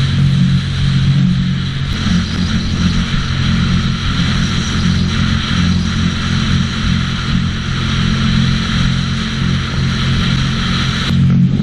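Sea-Doo personal watercraft engine running at a steady speed, with a constant hiss over it; the hiss drops away near the end.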